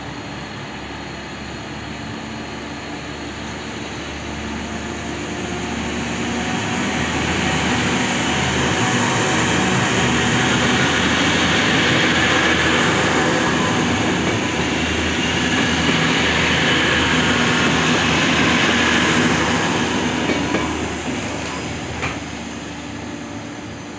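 Regional diesel multiple unit passing close along the platform and drawing away, its engine hum and rolling noise swelling to a peak and then fading. A high wheel squeal rises over it past the middle, with a sharp click near the end.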